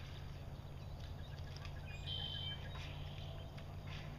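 A songbird gives one short, high-pitched call about two seconds in, over a steady low rumble in the background.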